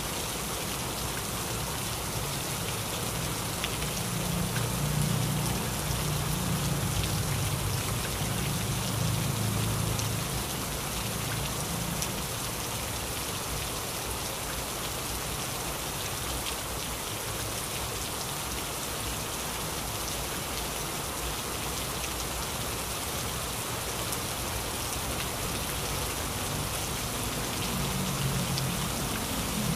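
Heavy rain falling steadily, with a low rumble that swells in the first half and builds again near the end.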